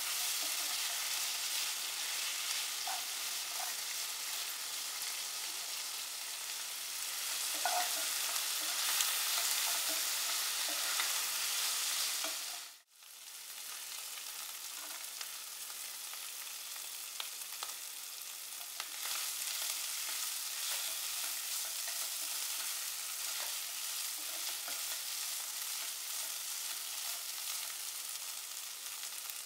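Small fish, sliced onion and curry leaves sizzling steadily in oil in a granite-coated pan, with light scraping and clicks from a wooden spatula stirring them. The sound cuts out briefly about halfway through, then the sizzle resumes.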